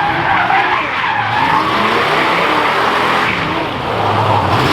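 Car doing a burnout: the engine revs up and down at high speed while the spinning rear tyres squeal and skid on the pavement.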